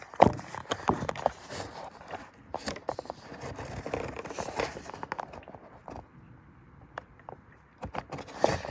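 Handling noise of a phone: irregular knocks, clicks and scrapes against the microphone as it is caught and fumbled, thinning out and getting quieter about six seconds in.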